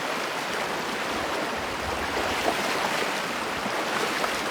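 Steady rushing of a shallow river flowing over rocks, with a few faint knocks.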